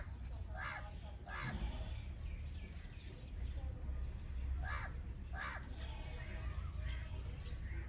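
Crows cawing: three harsh caws in quick succession near the start, then two more about five seconds in. Faint smaller bird chirps come in between, over a steady low rumble.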